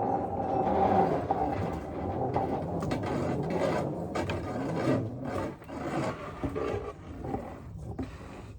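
Steel wire rope winding onto the sawmill's feed-works spool as it turns, giving a continuous uneven grinding and rubbing with a ratchety edge. It is louder over the first few seconds and eases off in the second half.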